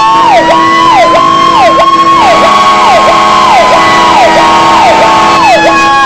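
Fire truck sirens sounding together, loud: one repeats quick falling sweeps about twice a second, while another wails in a slow glide that rises and then holds, easing down near the end.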